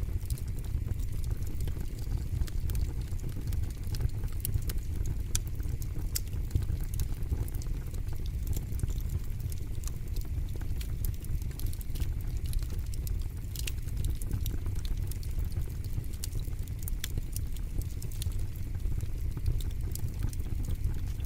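Wood fire burning in a fire pit: a steady low rumble of flames with frequent sharp crackles and pops.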